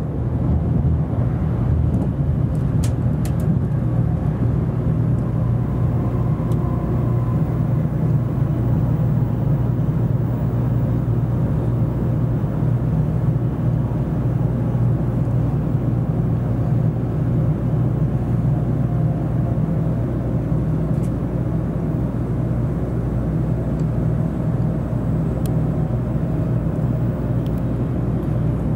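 N700 series Shinkansen running at speed, heard from inside the passenger cabin: a steady low rumble and hum of running noise that stays even throughout.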